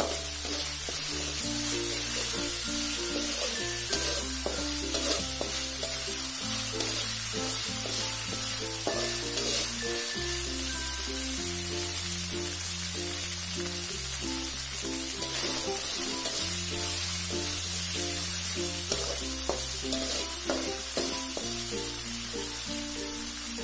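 Ground spice paste with lemongrass sizzling steadily in oil in an aluminium wok, stirred with a spatula at first; the paste is cooked through and fragrant. Background music with slow bass notes changing every couple of seconds plays over it.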